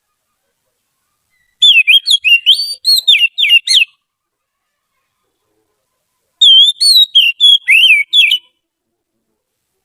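Oriental magpie-robin (kacer) singing: two phrases of quick, varied whistled notes, each about two seconds long, the first beginning about one and a half seconds in and the second about six and a half seconds in, with a pause of a few seconds between them.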